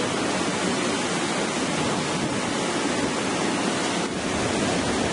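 Steady rushing noise of wind and sea heard aboard a cruise ship at night.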